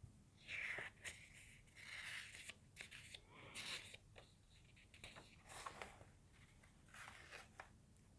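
Faint, intermittent rustling and crinkling of paper in short scattered bursts, like the pages of a book being handled and turned.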